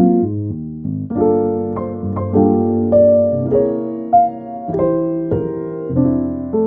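Background music: solo piano playing soft chords and a melody, each note struck and fading.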